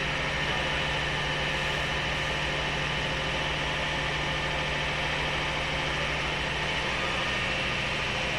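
Steady, even hum and hiss inside a 103-series electric commuter car, with a low drone and no wheel-on-rail clatter.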